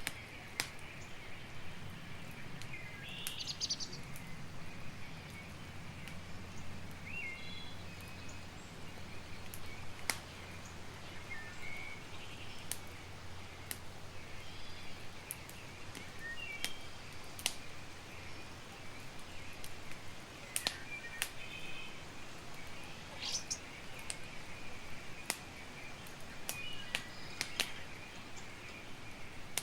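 Campfire crackling with irregular sharp pops over a steady hiss, while birds chirp in short, repeated calls.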